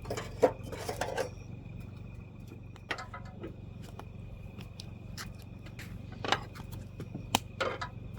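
Scattered clinks, knocks and scrapes of camp cookware and gear being handled, with a few sharper knocks near the end, over a steady low hum.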